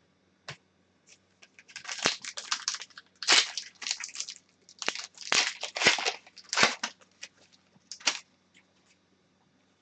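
A hockey card pack wrapper being torn open and crinkled, in a run of short bursts of crackling over several seconds.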